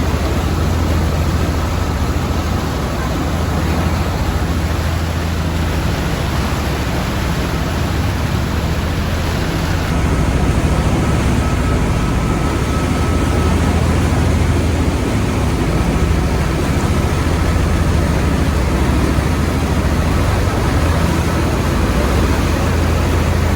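A tour boat's engine running steadily with a low drone under a constant rush of wind and water noise while under way.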